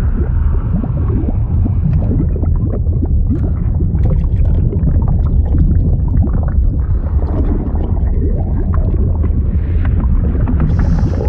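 Liquid sound effect: deep, continuous bubbling and gurgling over a heavy low rumble, dotted with many quick bubble pops. A higher hiss joins near the end.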